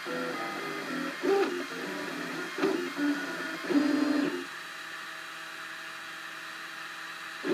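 Cubify Cube 3D printer's stepper motors whining in changing pitches as the print head makes short moves, with a few louder moments in the first half. About two-thirds of the way through this settles into a quieter, steady hum.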